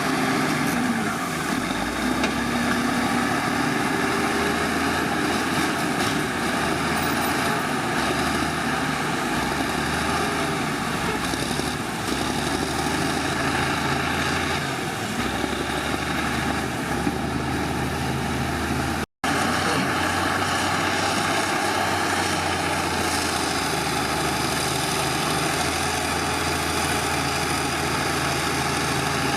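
Diesel engine of heavy earthmoving machinery running steadily under work, with a short break to silence about two-thirds of the way through.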